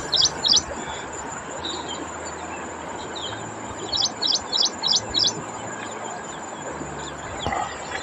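A bird calling in runs of sharp, high chirps, about four a second: two at the start and five more about four seconds in, over a steady background hiss.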